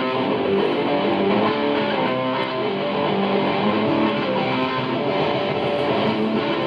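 Punk rock band playing from an early-1980s demo recording: strummed electric guitar chords to the fore, running on without a break.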